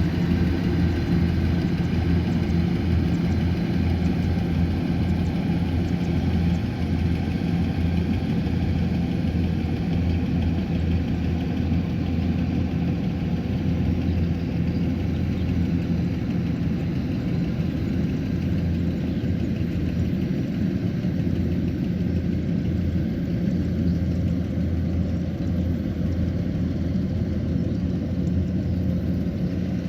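Kubota combine harvester's diesel engine running steadily at an even pitch.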